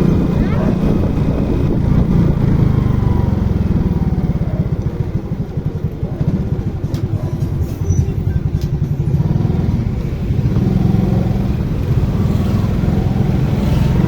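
Motorcycle engine running with a fast low pulse, easing off about halfway through and then picking up again.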